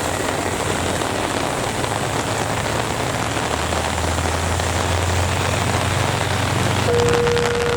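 Heavy rain falling steadily, with a low hum that rises in the middle and a thin steady tone starting near the end.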